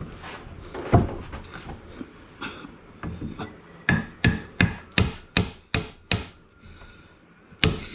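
Hammer blows on wood: one knock, then a quick run of seven knocks at about three a second, then one more near the end.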